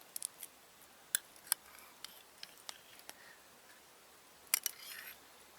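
A few scattered light clicks and taps from handling a cup, as steeped pine needles are picked out of the tea; the loudest taps come about a second and a half in and again near the end.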